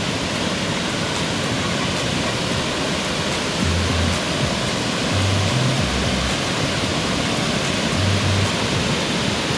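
Steady, loud rushing of a waterfall, Wiscoy Falls, with a few short low music notes under it about four, five to six, and eight seconds in.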